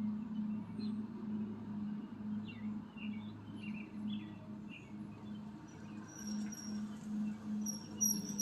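Birds chirping in short calls over a low steady hum that pulses about three times a second; a few high thin notes come near the end.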